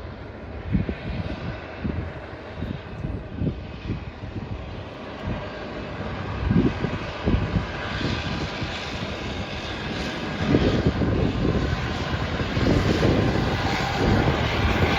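Heavy engine of a SANY mining truck running, the low drone growing louder over the second half.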